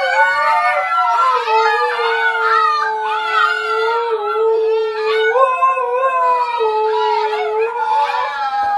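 Several dogs howling together in long, overlapping howls, some held on one pitch while others slide up and down. The howling cuts off suddenly at the end.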